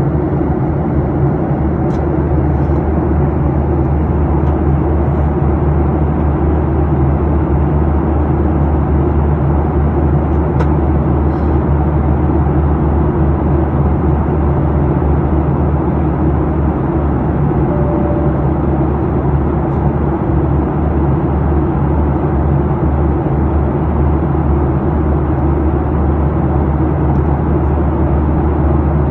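Steady drone of an airliner cabin in flight: jet engine and airflow noise heard from a window seat, an even rush with a low hum beneath, with a couple of faint ticks.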